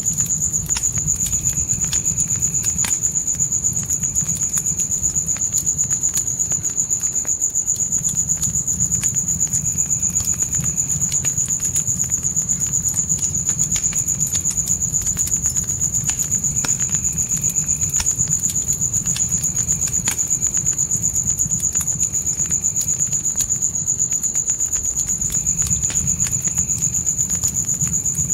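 Crickets trilling without a break in a high, steady chirr, over a crackling fire: frequent sharp pops and snaps above a low, steady rumble of flames.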